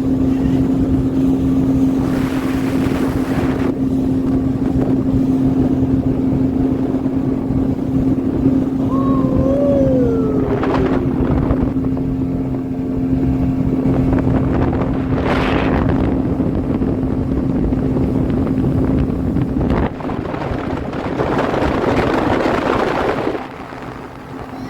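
Speedboat engine running with a steady drone while water and wind rush past the hull, swelling into louder rushes several times. The level drops near the end.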